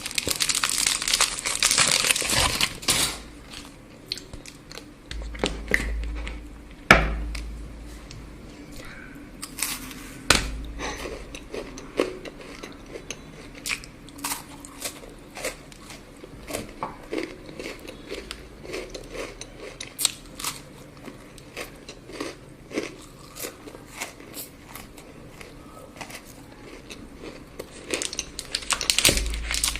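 Wrapper crinkling for the first few seconds and again near the end; in between, scattered crunchy bites and chewing of chocolate, with two sharper knocks about a third of the way in.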